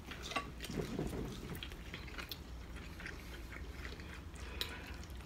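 Quiet eating sounds: chewing, with scattered small clicks and crackles, as of king crab leg shells being handled and broken.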